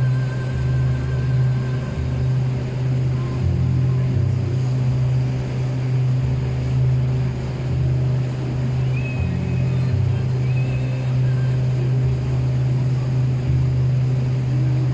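Boat's engine running steadily under way, a constant low drone.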